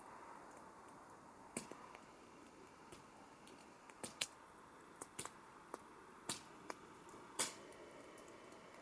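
Campfire crackling: irregular sharp pops and snaps of burning wood over a soft hiss, the loudest pops about four and seven seconds in.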